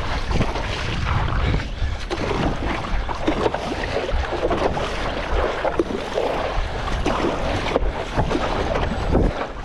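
Strong wind buffeting the microphone over choppy sea water sloshing and splashing around a stand-up paddleboard, with irregular splashes.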